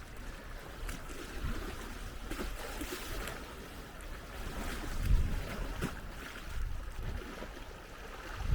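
Seaside ambience: wind buffeting the microphone in uneven low gusts, strongest about five seconds in, over water washing against the shore.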